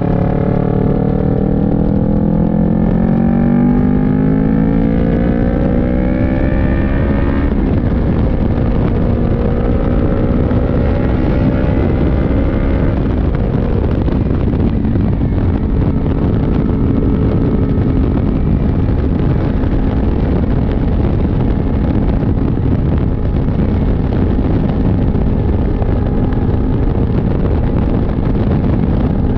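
CF Moto NK400's two-cylinder engine under way, rising in pitch as it accelerates for about seven seconds, dropping at an upshift, climbing again, then settling to a steady cruise under a rushing haze of wind and road noise.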